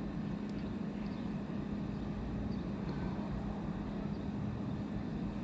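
Portable 12 V compressor fridge running steadily on its max setting, a constant hum with a fan-like hiss; the compressor is working hard, drawing about 5.4 amps.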